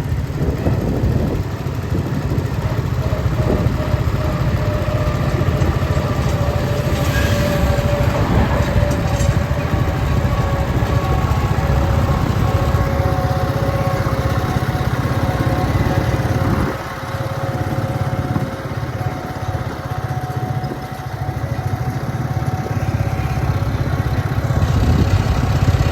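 Ford 4000 tractor engine running steadily under load while pulling a heavily loaded trolley. It eases off for a few seconds past the middle, then picks up again.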